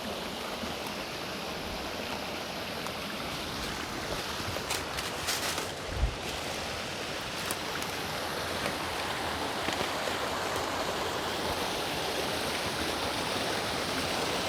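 Creek water rushing steadily over rocks, with one short low thump about six seconds in.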